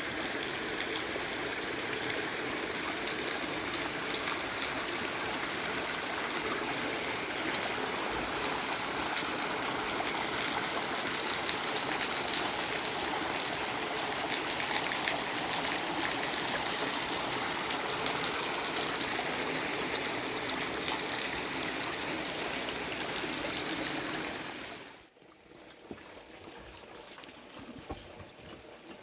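Steady, loud rush of water that cuts off abruptly about twenty-five seconds in, leaving a much quieter background with a few faint ticks.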